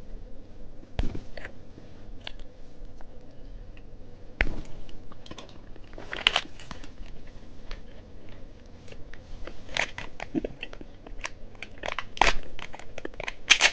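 Plastic candy wrapping crinkling and tearing as candy is unwrapped, with scattered small clicks and taps. Short rustling bursts about six seconds in and again near the end.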